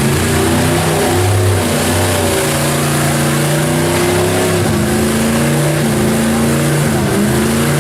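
An engine running hard at high revs, its pitch holding, then stepping up and down, with a brief dip near the end.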